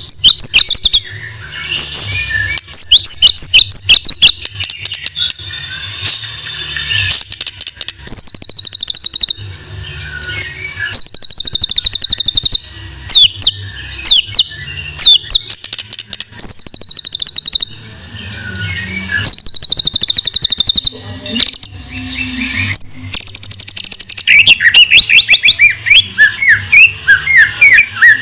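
White-rumped shama (murai batu) singing loudly: rapid whistled phrases and fast chattering runs of high notes, one phrase after another with short breaks between them.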